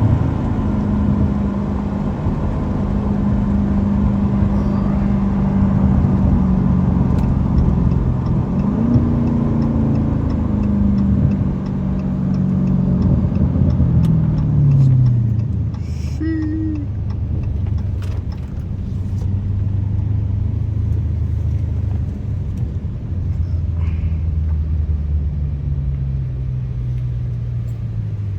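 Straight-piped 6.4-litre HEMI V8 of a 2023 Dodge Challenger Scat Pack cruising with a steady exhaust drone. The note rises briefly about nine seconds in, drops between twelve and fifteen seconds in, then settles into a lower, steady drone.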